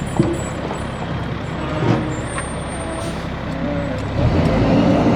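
A large truck's engine idling with a steady low hum, growing louder about four seconds in.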